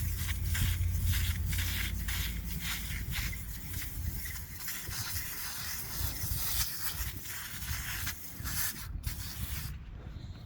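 Aerosol can of foaming coil cleaner spraying onto the condenser fins: a loud hiss that pulses, then stops about nine to ten seconds in.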